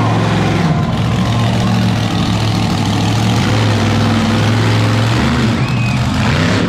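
Monster truck engine running loud and steady, its pitch shifting lower about five seconds in.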